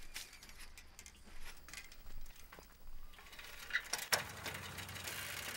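Faint clicks and light rattling of an old bicycle, with a sharp clack about four seconds in. A steady hiss comes in near the end.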